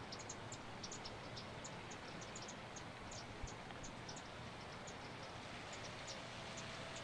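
Steady outdoor hiss with many short, high chirps from insects, coming several a second at uneven spacing.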